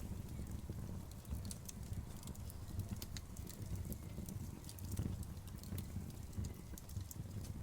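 Outdoor wood bonfire crackling, with a steady low rumble of burning and frequent irregular sharp pops and snaps.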